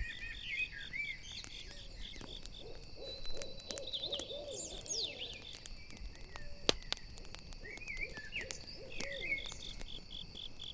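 An owl hooting in runs of short quick notes, twice, over crickets chirping in a steady pulse and a campfire crackling with sharp pops, the loudest pop about two-thirds of the way through.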